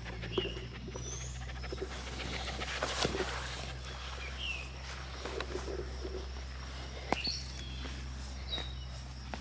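Outdoor ambience with small birds chirping now and then in short calls that slide in pitch. Sharp clicks or taps come about half a second, three seconds and seven seconds in, over a steady low hum.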